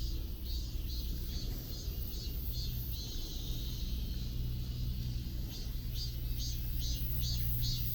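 Steady low rumble of city traffic, with a repeated high-pitched pulse about three times a second that grows more prominent in the second half.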